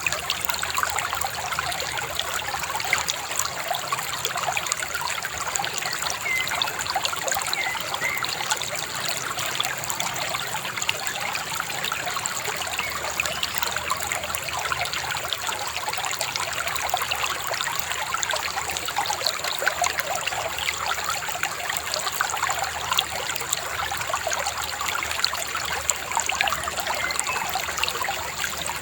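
Shallow river babbling and splashing steadily over stones.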